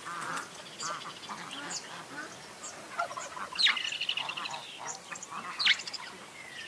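Several wild birds calling and singing together: short chirps and quick whistled sweeps, with a fast trill about halfway through.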